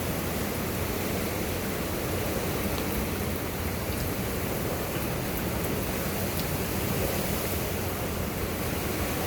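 Strong wind blowing as a steady, full rushing noise, with a few faint ticks.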